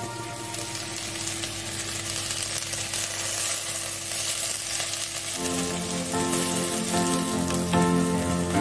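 Sliced onions sizzling as they fry in hot oil in a pan, a steady hiss, with background music playing underneath.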